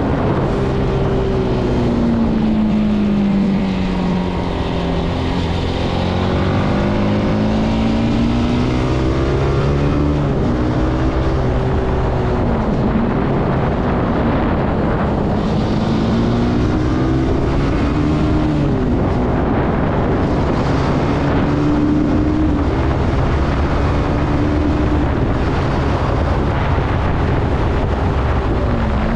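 Zontes C125 125cc motorcycle engine running under way, its pitch dropping over the first few seconds and then rising and falling as the rider slows and speeds up. Wind rushes over the microphone.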